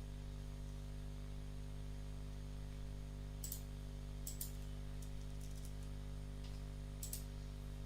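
A few separate sharp clicks at a computer, keys or buttons pressed now and then, over a steady low electrical hum.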